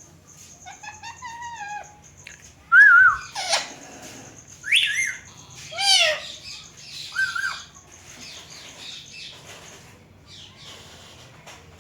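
Indian ringneck parakeets calling: a run of short, sharp squawks and chirps that bend up and down in pitch, the loudest call about three seconds in, then several more over the next five seconds.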